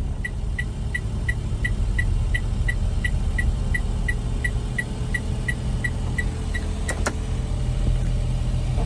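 Daihatsu Hijet Truck's 660 cc three-cylinder engine idling steadily. Over it comes a fast, light ticking, about three a second, that stops about six and a half seconds in, and a sharp click follows about seven seconds in.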